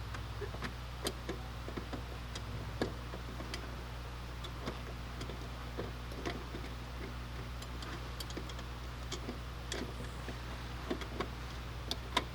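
Small, irregular plastic clicks and taps as a halogen headlight bulb is worked into its headlight housing and twisted clockwise to lock it in, over a steady low hum.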